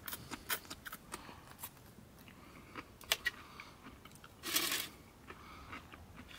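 A person chewing and biting into a plant-based burger close to the microphone: a run of short wet mouth clicks and crunches, with one louder, longer crunch a little past the middle.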